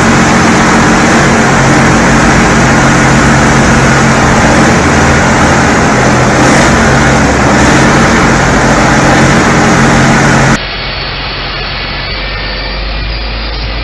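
Heavy machine's engine running loud and steady at a constant pitch. Near the end it cuts off abruptly to a quieter, duller steady engine hum.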